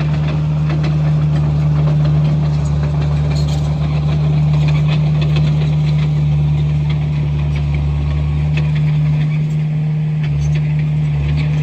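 Komatsu bulldozer's diesel engine running steadily at a constant speed, with scattered light rattles and clanks over the engine note.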